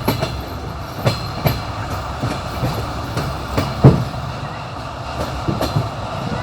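Wheels of a moving passenger train clattering over the rails, heard from the window of the carriage: a steady low rumble with irregular sharp knocks, the loudest a little before the midpoint.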